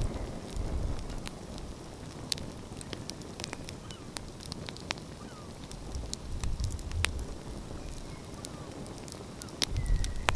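Wood fire crackling, with frequent sharp pops scattered through. A low rumble swells up about six seconds in and again near the end.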